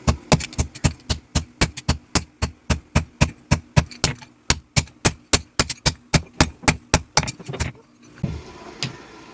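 Blacksmith's hammer forging metal on an anvil in a quick, steady rhythm of about four to five blows a second, each blow with a faint high ring. The hammering stops about eight seconds in.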